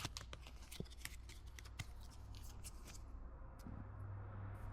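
Pokémon trading cards being handled and flipped through by hand: a quick run of light card clicks and slides, thinning out after about three seconds.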